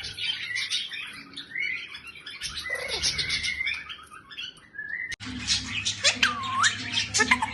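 Pet parrot chirping and chattering in quick, high-pitched calls, with a brief break about five seconds in.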